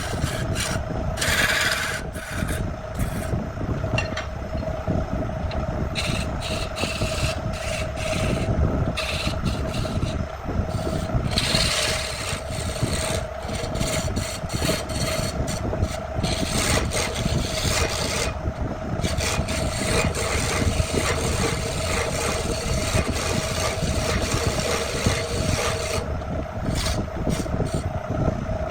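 Continuous abrasive rubbing and rasping against wood, as in sanding or grinding, over a steady machine hum.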